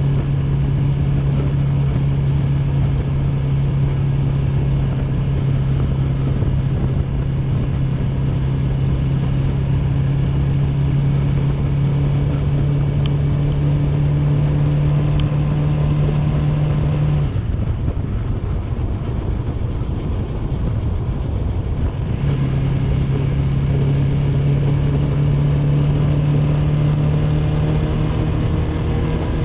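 AKT GP 180 motorcycle engine running at a steady speed on the move, with a wash of wind and road noise. The engine note fades out for about five seconds past the middle, then comes back and starts to fall in pitch at the very end.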